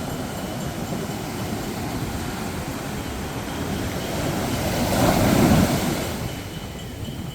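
Sea waves surging and washing in, a steady rushing that swells to its loudest as a wave breaks about five seconds in, then eases.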